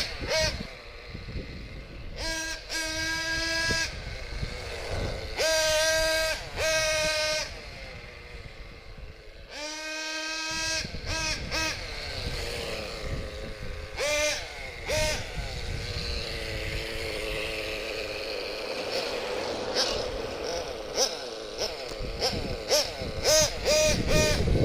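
.21 nitro engine of a Protech Promax RS 1/6-scale short course RC truck revving high in repeated bursts of a second or two, dropping back between them. In the second half the pitch glides up and down as the truck drives about.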